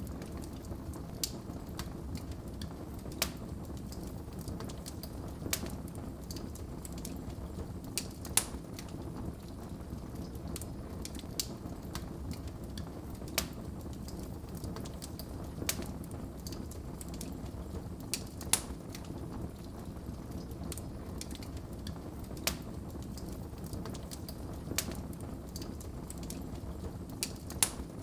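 Log fire crackling in a fireplace: a steady low rumble of burning, with sharp pops and snaps at irregular intervals, about one every two seconds.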